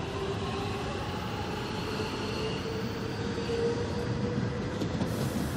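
Korail electric multiple-unit commuter train pulling away past the platform: a steady rumble of wheels on rail under a traction motor whine that rises slowly in pitch as the train gathers speed.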